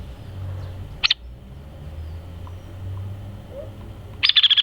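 Hairy woodpecker calling: a single sharp peek about a second in, then near the end a fast, high rattling whinny.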